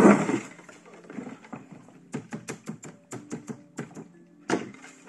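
A quick run of sharp taps or clicks, about five a second, after a louder burst at the start, and a single louder knock near the end.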